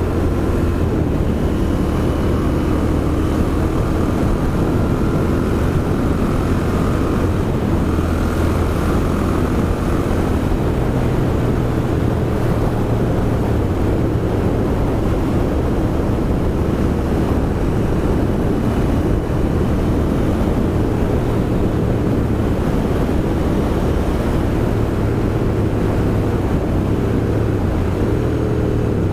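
Royal Enfield Interceptor 650's 648 cc parallel-twin engine running as the motorcycle rides along, its note holding mostly steady with small shifts in pitch, with some wind on the microphone.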